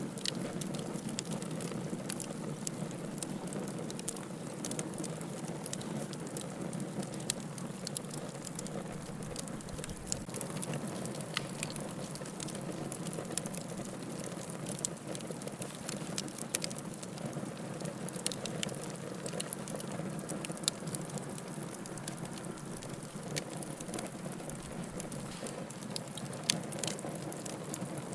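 Wood fire burning in a fireplace: a steady low hiss of flames with irregular crackles and occasional sharper pops from the burning logs.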